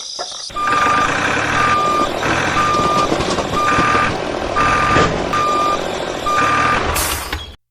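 Truck reversing alarm beeping about once a second, about seven beeps in all, over the noise of a running truck. It starts about half a second in and cuts off suddenly near the end.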